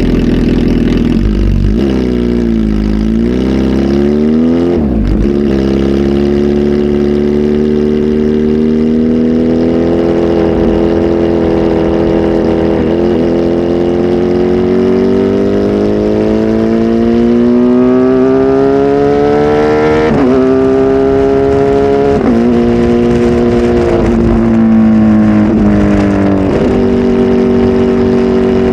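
Kawasaki Z H2 SE's supercharged inline-four running through a full aftermarket exhaust system, loud. The engine note dips and climbs early, rises slowly and steadily for a long stretch, then gives several quick sharp rises and drops in pitch near the end.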